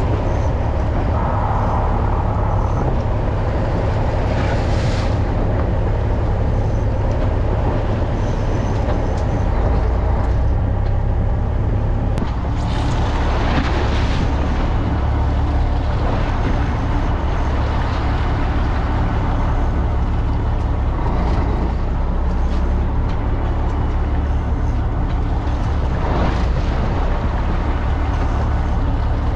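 A fishing boat's engine running steadily with a deep low drone, over a haze of water noise, with a few brief louder rushes.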